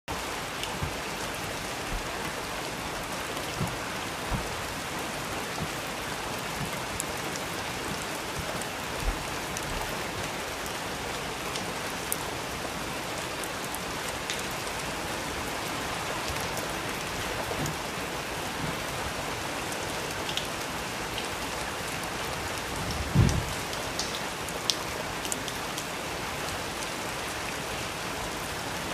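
Steady rain falling, an even hiss with scattered louder drop hits. One heavier low thump comes about two-thirds of the way through.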